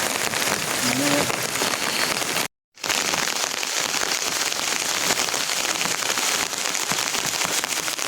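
Steady rain falling, a dense patter of drops; it breaks off to silence for a moment about two and a half seconds in.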